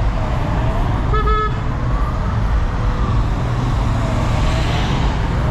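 Road traffic rumbling steadily, with a siren wailing up and down over it and a short horn toot about a second in: the escort of a passing governor's convoy.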